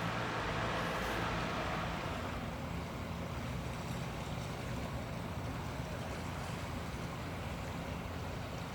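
Sea waves washing on the shore: a swell of surf about a second in that settles into a steady wash, over a low steady hum.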